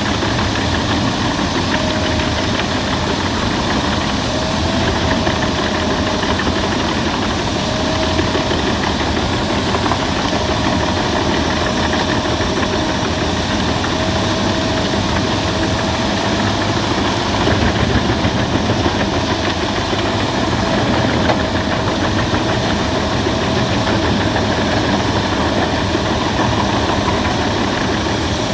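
Albach Diamant 2000 wood chipper running steadily under power, a dense even machine noise with a faint, slightly wavering whine.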